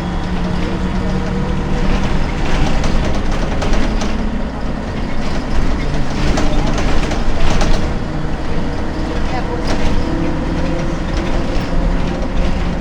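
Ikarus 280 bus running, its diesel engine's note shifting in pitch a few times, with rattles and clatter from the bus.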